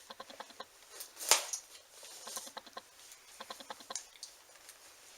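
Cardboard Loot Crate box being opened by hand: runs of quick small clicks and crackles, with one sharper rip about a second in.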